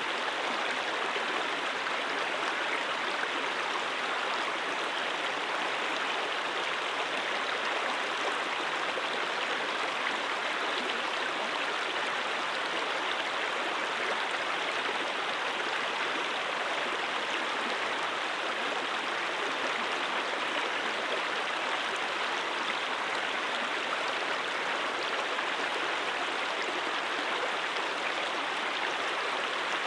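Stream water flowing: a steady, even rush with no pauses or changes.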